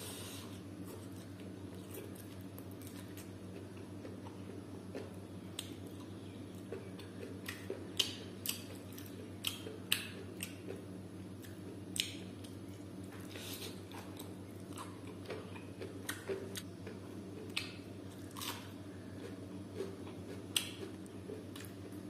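Close-miked chewing and wet mouth smacks of a person eating pork with bamboo shoots and rice, with scattered sharp short clicks. A faint steady low hum runs underneath.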